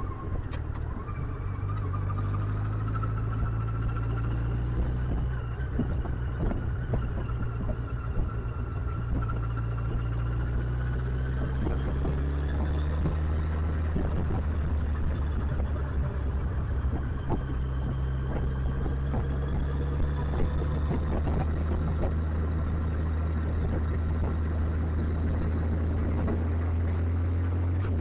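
Motorcycle engine running steadily while riding, heard from the bike, with road and wind noise. The engine note shifts in pitch a few times as the revs change.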